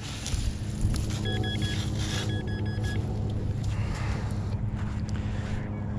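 Minelab Vanquish 440 metal detector giving two short runs of quick high beeps, about a second and two seconds in, over a steady low rumble.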